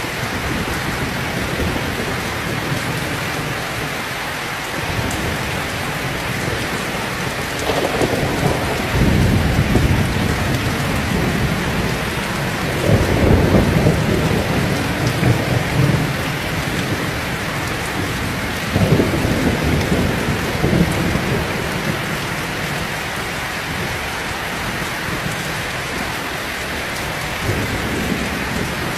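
Heavy rain falling steadily, with rolling thunder rumbling in several low swells about a third and halfway through, and again faintly near the end.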